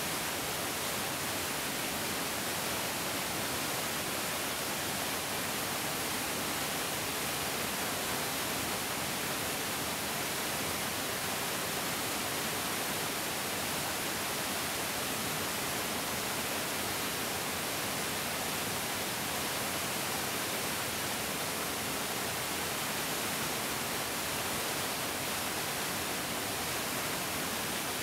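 Mountain stream flowing: a steady, even rush of water with a bright hiss.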